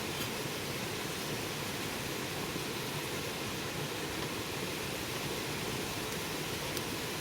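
Bonfire burning: a steady rushing hiss with a couple of faint pops, one just after the start and one near the end.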